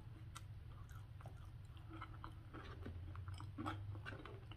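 A person chewing food with the mouth closed, close to the microphone: faint, soft wet clicks and smacks over a low steady hum.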